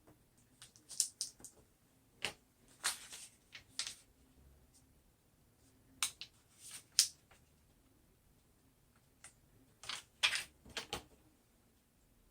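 Small taps and clicks with a few brief scraping rustles, coming in three clusters: hands working with craft tools and vinyl decal material on a tabletop.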